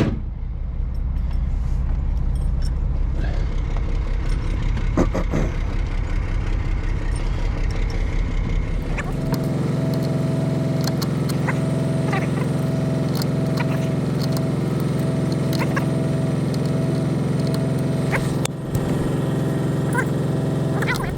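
Engine idling steadily. About nine seconds in the sound changes to an even hum with a pulsing higher tone, and light clicks and knocks are scattered through it.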